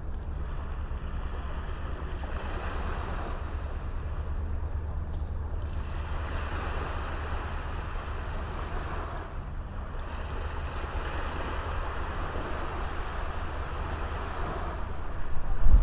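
Small sea waves washing onto a beach, the surf swelling and falling away every few seconds, over a steady low rumble of wind on the microphone.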